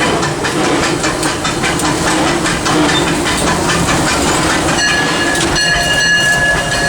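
Disneyland Railroad steam locomotive running, heard from inside the cab: steady hiss and rattle with quick clicks, then about five seconds in its steam whistle starts blowing one steady chord.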